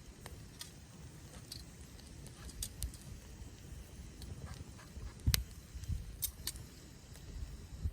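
Wood fire crackling in a fire pit, with irregular sharp pops, the loudest about halfway through, over a low steady rumble.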